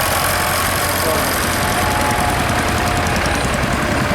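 Vintage farm tractor engine running steadily at low speed.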